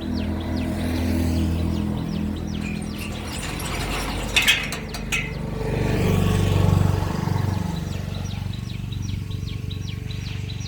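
A vehicle engine running steadily, its pitch bending down and back up about six to seven seconds in, with a couple of sharp knocks shortly before. A bird chirps repeatedly in the first few seconds and again near the end.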